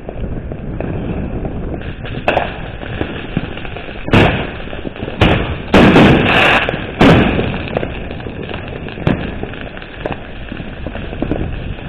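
Fireworks going off: a few scattered cracks, then a cluster of loud bangs from about four to seven seconds in, each with an echoing tail, over a steady low rumble.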